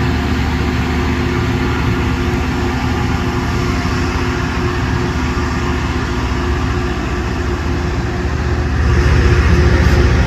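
Loram rail grinder at work: a steady, loud din of heavy diesel engines and grinding on the rail, with a low rumble and a couple of steady hum tones. It grows louder about nine seconds in.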